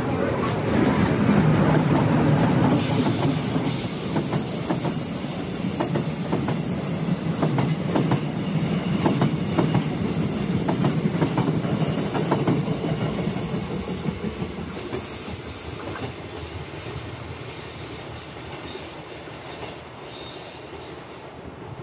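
Passenger train passing on a curve: its wheels clatter over the rail joints and give a high squeal. The sound fades steadily over the last several seconds as the train moves away.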